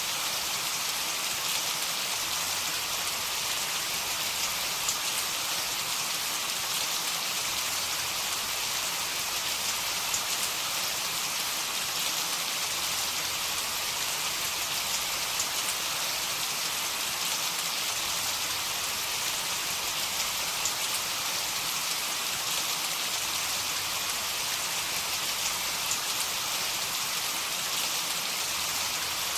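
Heavy rain falling steadily: a dense, even hiss with faint scattered taps of individual drops and no thunder.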